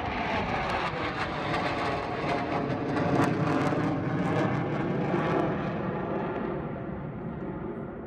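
Jet aircraft engine noise with a faint whine in it, dulling and fading over the last few seconds as the jet moves away.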